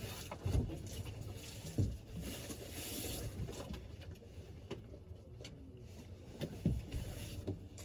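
2001 Polaris 500 liquid-cooled two-stroke twin snowmobile engine running steadily at idle, with a few knocks over it.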